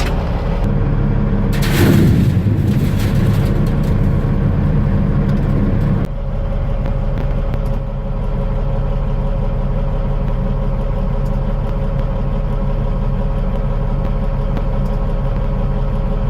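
Freightliner dump truck's diesel engine running steadily on the road, with a brief hiss about two seconds in and the engine note dropping about six seconds in.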